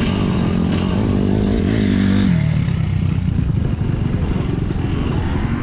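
Motocross dirt bike engine running hard, its note climbing and then dropping sharply about two seconds in, over a rough, clattering engine noise.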